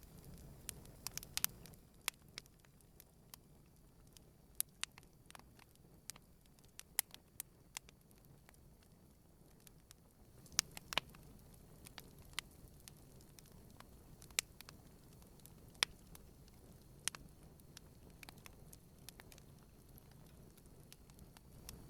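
Wood campfire burning gently: sharp crackles and pops at irregular intervals over a faint low rumble of the flames.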